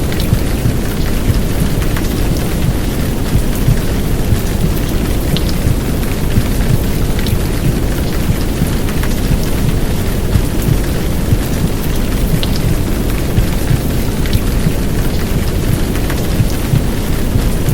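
Heavy downpour of rain, a steady dense hiss with scattered sharp drop ticks, over a deep constant rumble from a layered womb-sound track.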